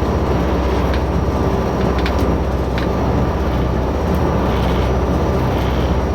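Hydrofoil under way, its engines giving a loud, steady low drone heard from on board, with a few faint clicks.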